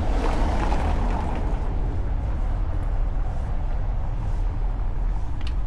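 City street traffic: a steady low rumble, with a vehicle passing close in the first second or so and fading, and a short sharp click near the end.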